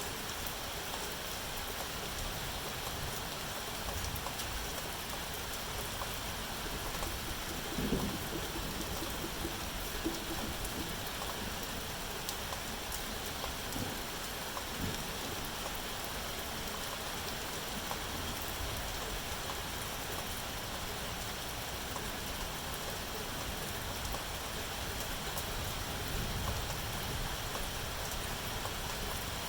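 Steady rain falling, an even hiss of drops on a surface, with a few faint low thuds now and then.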